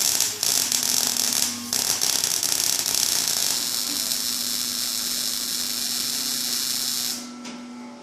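Electric arc welding: a steady, loud crackling hiss from the welding arc, with brief breaks about half a second and just under two seconds in, stopping about seven seconds in.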